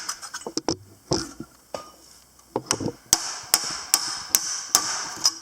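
Hammer blows on metal driving a steel roll pin out of a John Deere 720's Float-O-Matic seat linkage: a few scattered taps, then a steady run of sharp strikes about two to three a second until the pin comes free.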